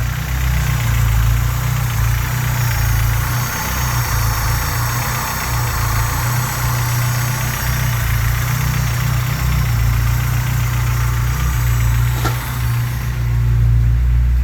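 Honda G23 engine idling steadily while still cold, with a knock that the owner takes for piston slap.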